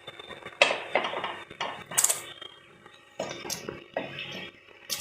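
A spoon stirring curry in a cooking pot, clinking and scraping against the pan about seven times.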